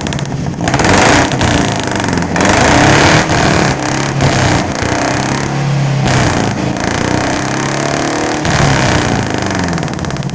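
Pickup truck engine revved again and again through an aftermarket "High Power" exhaust muffler, its exhaust note rising and falling with each blip of the throttle.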